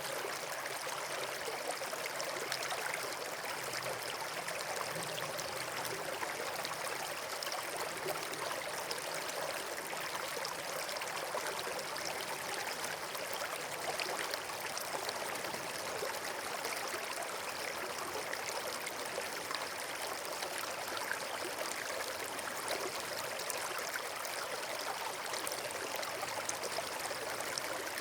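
Steady rushing of flowing water, as from a stream or small waterfall, an even unbroken noise.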